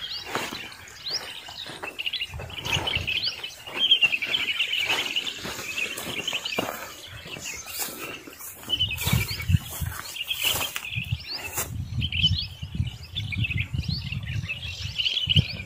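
Small birds chirping and twittering in a busy, continuous chorus. From about nine seconds in, a low rumble and scattered short knocks join it.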